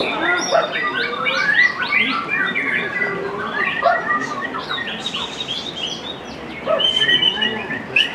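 White-rumped shama (murai batu) singing a rapid, varied song of whistles, trills and chirps, with a brief lull about six seconds in and a held high whistle soon after.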